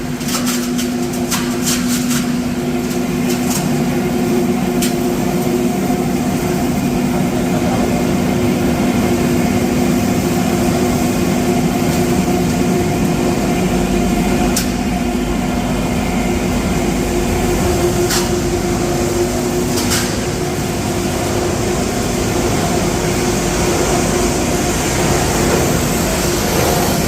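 PP raffia and LDPE scrap plastic washing machine line running steadily: a continuous industrial machine hum with two steady tones over a rough rumble, with a few sharp clicks or knocks here and there, several in the first few seconds.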